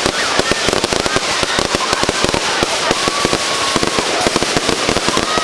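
A dense volley of fireworks: rapid crackling bangs, many a second, with thin whistles that slide up and down in pitch running through them.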